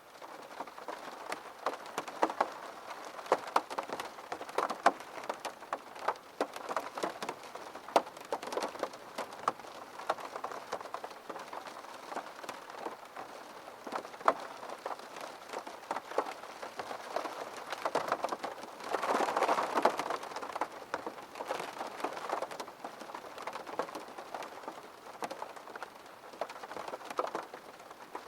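Rain falling on a window pane, with many separate drops ticking against the glass over a steady hiss; the rain comes down harder for a couple of seconds about two-thirds of the way through.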